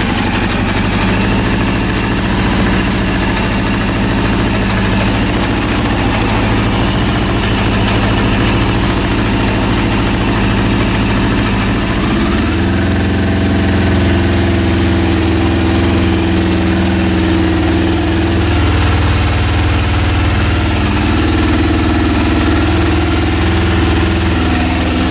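Honda CB400 inline-four engine running, first at a low idle, then raised about halfway through to a steady higher speed. The owner hears a mechanical noise at low RPM that goes away at high RPM, and suspects the carburetor set rather than the engine itself.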